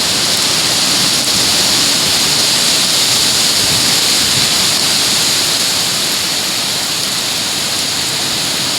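Hurricane wind and heavy rain: a loud, steady rushing that eases slightly after about six seconds.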